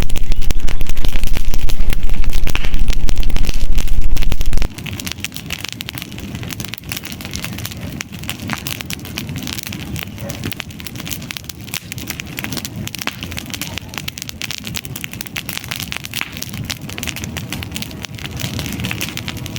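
Wood campfire crackling and popping with a dense run of sharp snaps. For the first four and a half seconds a loud low rumble lies under it, then cuts off suddenly.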